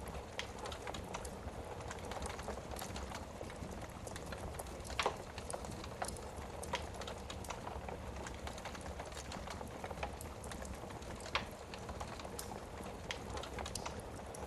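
Wood fire burning in a fireplace: a steady low hiss with frequent small crackles, and a few sharper pops, the loudest about five seconds in and another about eleven seconds in.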